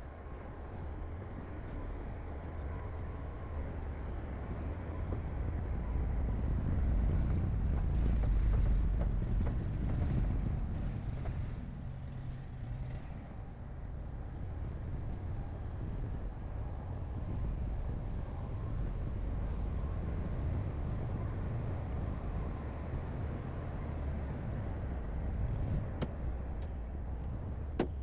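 Heavy construction machinery's diesel engine running steadily, a deep rumble that grows louder for a few seconds early in the middle and then holds level.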